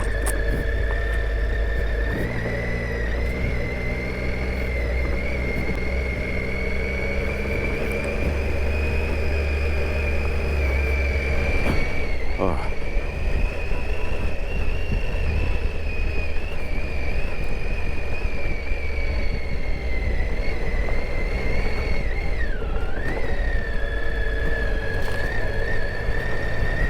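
Triumph Tiger 800 XCa's three-cylinder engine running as the motorcycle rides slowly over rough ground, a steady low rumble with a high whine that drifts up and down in pitch.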